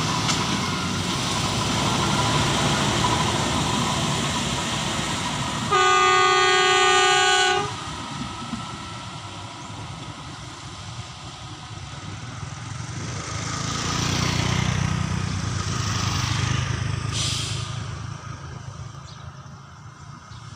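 A train passing with loud rail noise, and a horn sounding one steady blast of about two seconds some six seconds in. The noise then drops, swells again and fades near the end.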